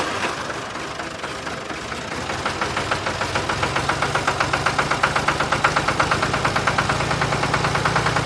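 Small motor-driven model machine running with a fast, even clatter of about ten knocks a second, which grows stronger partway through; a steady hum joins in about halfway.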